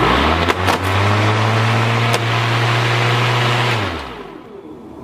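Lawnmower engine running at a steady pitch, then winding down with a falling pitch and fading about four seconds in.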